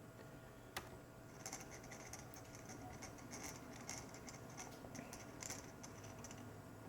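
Faint clicking and ticking of small tools and plastic laptop parts being handled during reassembly. There is one sharper click about a second in, then a run of light, irregular ticks.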